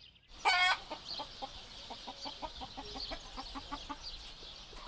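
A chicken gives one loud short squawk about half a second in, then clucks in a steady run of short notes, about three or four a second, over a faint steady high hiss.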